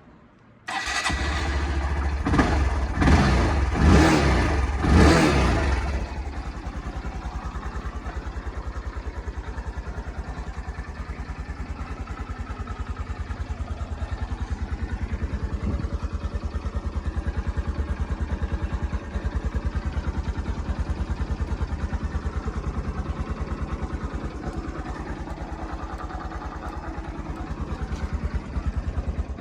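Honda Grom JC61's 125cc air-cooled single-cylinder four-stroke engine starting up about a second in, revved three times, then settling into a steady idle.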